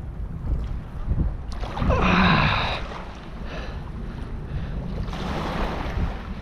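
Wind buffeting the microphone over the low wash of river water, with a short voice-like sound about two seconds in.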